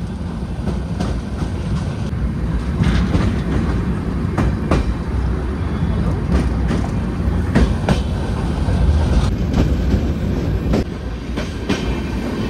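Passenger train running at speed, heard from an open coach door: a steady rumble of the wheels on the track with irregular sharp clacks over the rail joints.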